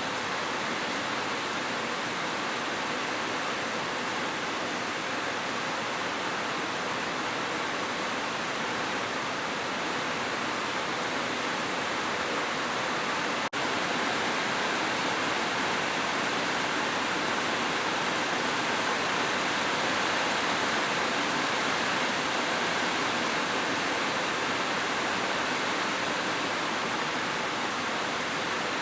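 Heavy rain falling as a steady, even hiss with no separate drops or thunder standing out, broken by one brief dip in level about halfway through.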